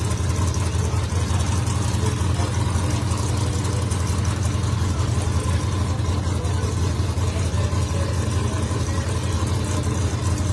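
Drag race car's engine idling steadily with a low, even rumble.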